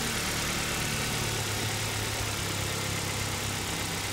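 Car engine idling steadily, a low even hum under a broad hiss.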